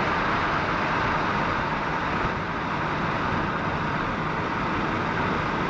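A car driving along a main road: a steady rush of tyre and road noise over a low engine rumble.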